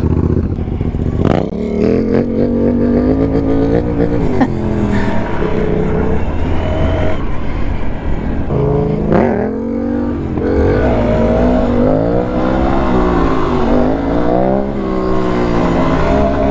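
A vehicle engine being revved, its pitch held high for a couple of seconds early on and then swinging up and down repeatedly, about once a second, in the second half, over a steady low rumble.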